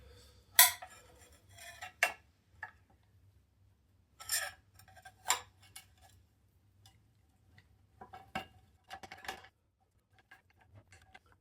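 Irregular sharp metallic clicks and knocks as a tight-fitting part is worked and levered loose from an engine block. The loudest knock comes about half a second in, with scattered clinks after it and faint ticks near the end.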